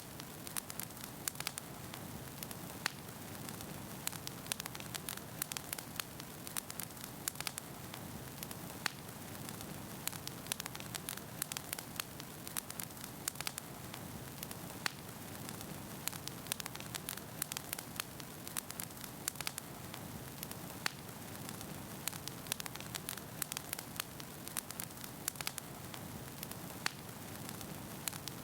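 Wood fire burning in a fireplace: a steady rushing hiss with frequent irregular crackles and pops from the burning logs.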